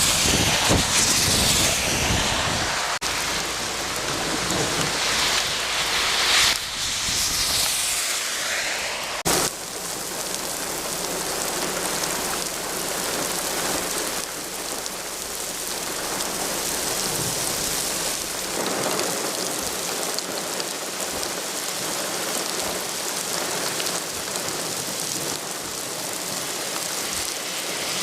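Heavy thunderstorm rain pouring down in a dense, steady hiss.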